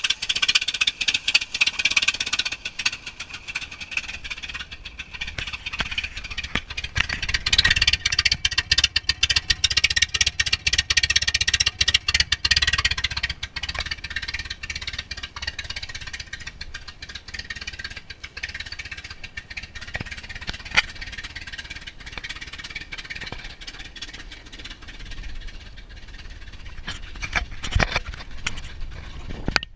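A 1965 Ford Fairlane's 200-cubic-inch inline-six engine running on an undersized Pinto carburetor, its fast even firing pulses loudest in the first half and quieter later on. A couple of sharp clicks come in the second half.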